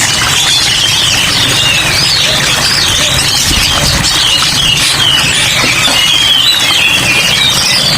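Many caged songbirds chirping and warbling at once in a dense, steady chorus, over a constant hiss of falling rain.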